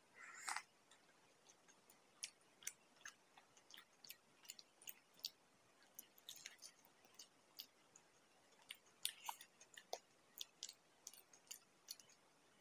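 Close-up eating sounds: a short sip from a glass of tea at the start, then someone biting into and chewing fried samosa pastry in a string of short, irregular crunches and wet clicks.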